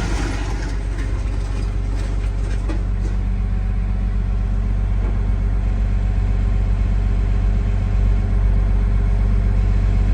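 A heavy engine running steadily at a low, even pitch. It cuts in abruptly at the start and gets a little louder about eight seconds in.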